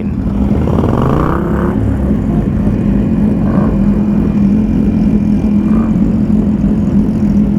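A vehicle engine running steadily, with a short rising rev about a second in.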